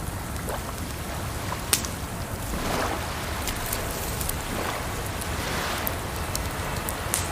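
Crackling campfire with sharp pops, the loudest about two seconds in, over a steady wash of flowing water that swells now and then.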